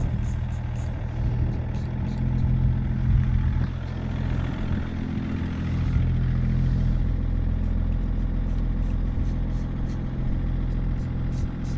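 A car engine idling steadily, its low hum the loudest sound throughout, with short faint hisses from an aerosol can of chain lube being sprayed onto squeaky windscreen wiper pivots.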